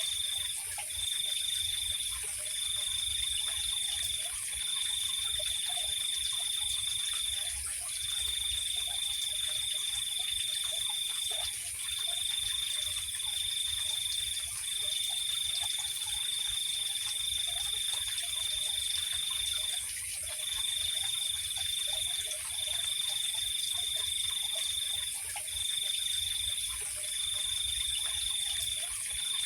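Night insect chorus: one high-pitched trill that runs for a second or several at a time, broken by short pauses, over a steady, even higher insect hiss, with faint scattered calls lower down.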